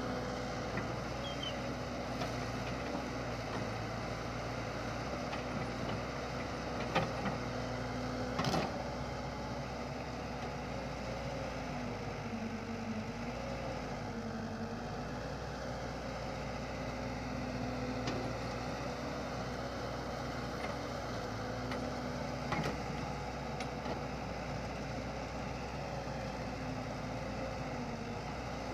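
An engine running steadily at a constant speed, with a slightly wavering hum and a few sharp knocks, one about a third of the way in and one near the end.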